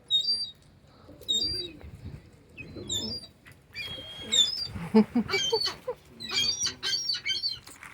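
Small birds chirping repeatedly, many short high calls, busier in the second half.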